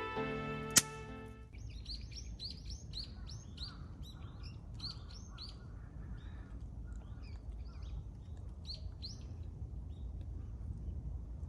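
Small birds chirping in quick series of short, high calls over a low steady rumble, after background music stops about a second and a half in. A single sharp click sounds just before the music ends.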